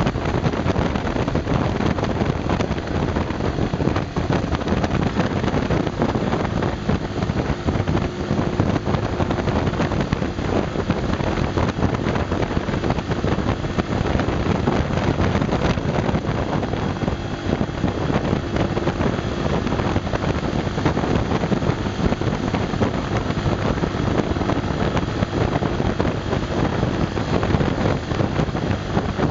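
Honda Super Cub 110's single-cylinder four-stroke engine running steadily under load as the motorcycle climbs a hill, heavily mixed with wind noise on the microphone.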